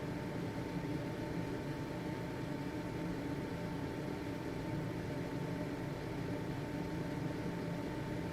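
Household ventilation fan (exhaust fan) running steadily: an even whirring hum with a faint steady whine above it.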